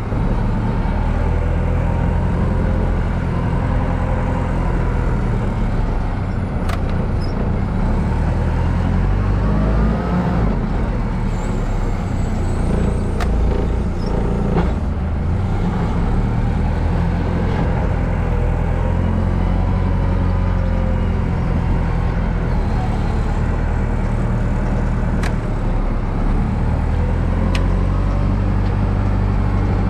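An engine running steadily at a low rumble, with a few sharp clicks or knocks.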